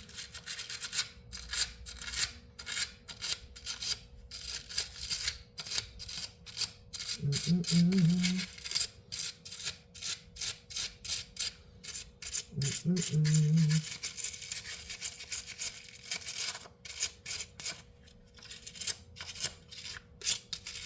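Rapid repeated scrubbing strokes as caked-on grime is cleaned off a power grinder, with two short low hums about a third and two thirds of the way through.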